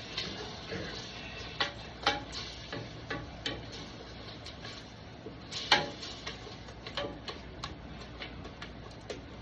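A cooking utensil clicking and knocking against a pot in an irregular series, with one louder knock a little before the six-second mark, as curry paste is worked into the pot, over a steady low hum.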